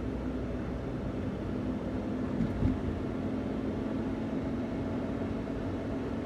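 Daihatsu Hijet kei van's stock 660 cc three-cylinder engine running at a steady speed on the move, with road noise underneath. A brief thump about two and a half seconds in.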